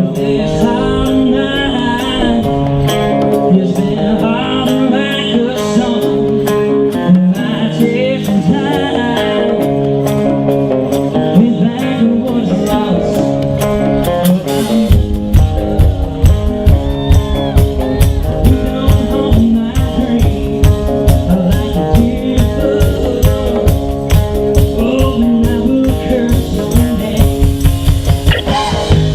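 A live country band playing, with guitars and singing; a steady drum beat comes in about halfway through.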